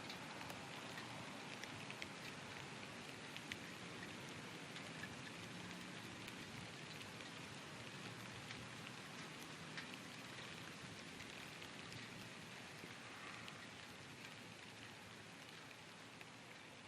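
Rain falling steadily, with scattered drops ticking on a nearby surface; it grows slightly quieter near the end.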